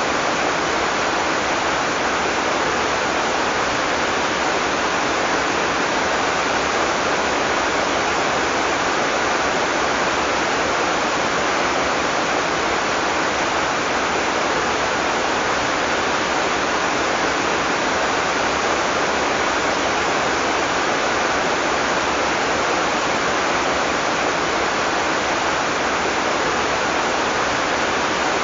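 Heavy tropical rain falling in a steady, unbroken downpour, an even dense hiss with no thunder.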